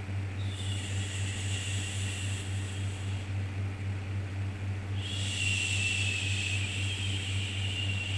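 Shushing 'shhh' sound for soothing a baby: one long shush starting about half a second in and fading by about three seconds, and a second starting about five seconds in, over a steady low hum.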